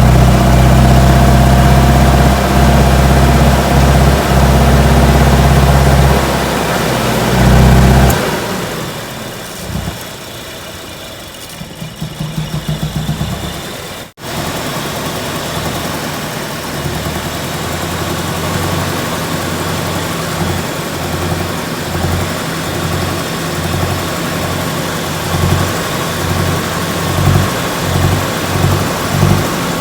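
Car engine running loud and steady, then dropping away about eight seconds in. A short burst of fast, even chugging follows, then a sudden break. The engine then runs again, uneven, with irregular low pulses.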